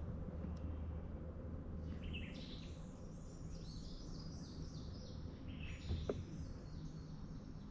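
Songbirds calling and singing from the creekside woods, with a run of quick repeated down-slurred notes in the middle. A low steady hum in the first two seconds, and one sharp click about six seconds in.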